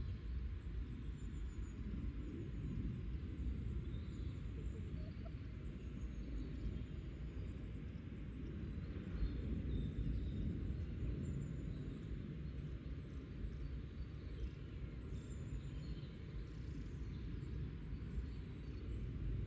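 Garden ambience: a steady low rumble with faint, scattered chirps of small birds high up, and soft sounds from chickens.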